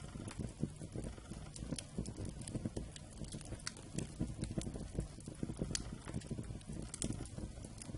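Wood campfire burning, with irregular sharp crackles and pops over a low rumble of flame.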